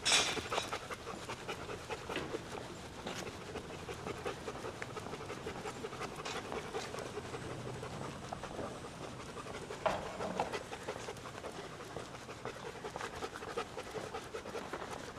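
German Shepherd Dog panting in a quick, steady rhythm, with a few sharp knocks, the loudest right at the start and another about ten seconds in.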